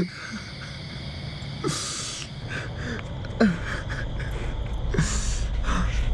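A man gasping and sobbing in short breathy heaves, three of them standing out. A low rumble swells steadily under them in the second half.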